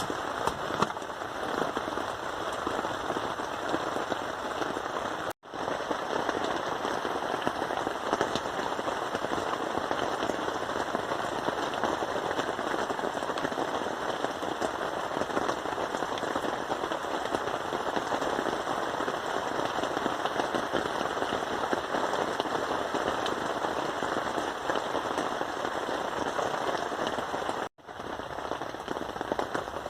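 Steady rain falling, with a dense spread of individual drop hits. It breaks off for an instant twice, about five seconds in and near the end.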